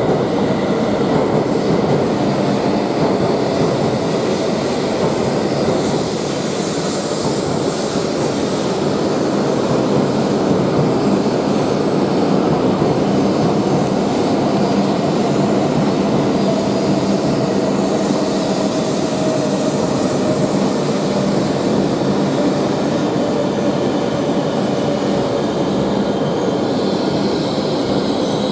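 E7/W7-series Shinkansen running slowly alongside the platform: a steady rumble of wheels and traction equipment. A faint tone in it slowly falls in pitch as the train slows.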